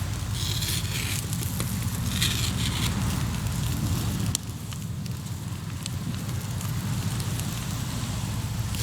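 Hardwood campfire burning in a fire pit, crackling with a few sharp pops, over a steady low rumble and brief hissing surges.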